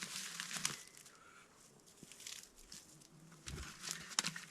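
Bark being handled and torn for kindling: rustling and crackling, busiest in the first second, with small clicks, a dull thump about three and a half seconds in and a sharp click near the end.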